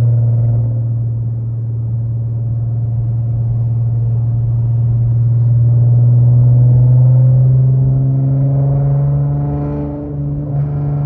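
Infiniti Q50 3.7's V6 with test pipes and a loud aftermarket exhaust, droning steadily while driving, its pitch climbing gently about two-thirds of the way through.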